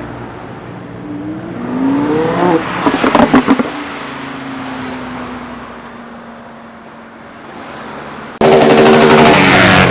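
A modified car accelerating past, its engine note rising with a quick run of sharp exhaust cracks, then falling and fading as it moves away. Near the end a second car's engine comes in suddenly, very loud and close, accelerating hard.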